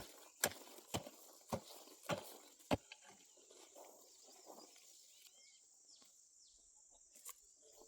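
A series of dull, evenly spaced knocks, about one every 0.6 seconds, over the first three seconds, then only faint outdoor background with a brief chirp in the middle.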